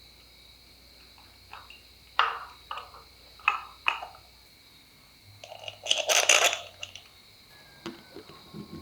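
Small metal parts clinking: a few sharp separate clinks, then a longer, louder clatter a little past the middle, then some lighter knocks, over the steady chirping of crickets.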